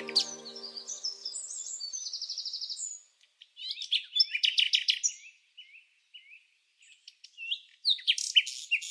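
Songbirds chirping and singing in quick high notes and short trills, with a fast repeated trill about two seconds in and a brief lull in the middle.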